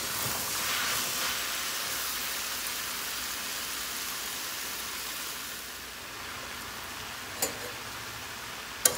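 Shredded cabbage and potatoes sizzling in a stainless steel frying pan as the sabzi cooks uncovered, stirred with a metal spatula at the start. The sizzle eases slightly partway through, and two sharp clicks near the end are the spatula knocking on the pan.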